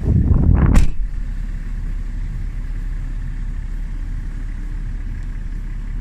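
A steady low rumble, after a louder, rougher first second that ends in a brief hiss.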